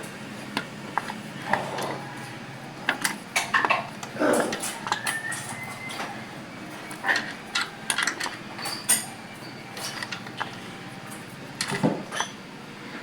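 Irregular metallic clicks, taps and clinks from hand tools working the tractor engine's valve gear during valve-clearance adjustment. The engine is not running.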